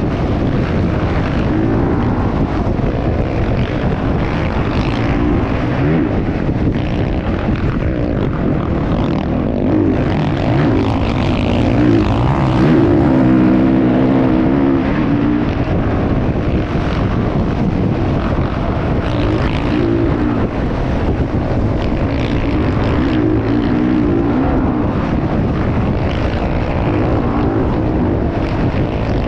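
Motocross motorcycle engine running hard, its pitch rising and falling as the throttle opens and closes, with a steady rush of noise underneath.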